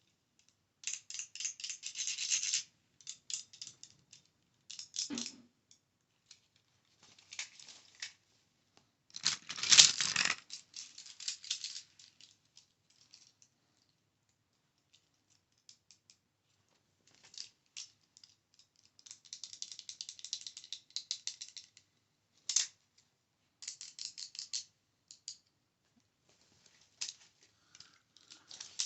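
Small plastic items handled close to the microphone: irregular bursts of tapping, scratching and rattling, with gaps between, and one louder clatter about ten seconds in.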